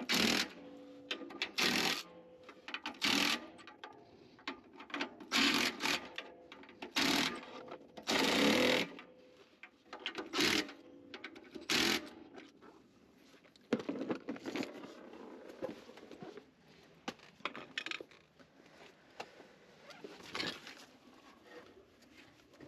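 Power tool run in a series of short bursts, each under a second, through the first half; lighter clicks and knocks of parts being handled follow.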